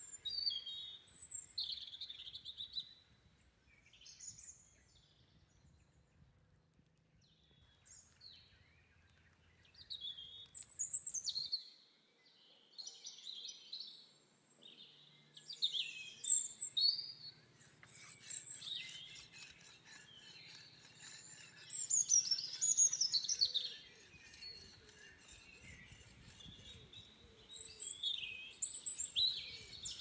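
Wild birds chirping and calling in short rising and falling phrases. From a little past halfway, a knife blade scrapes against a rock in rapid repeated strokes as it is sharpened.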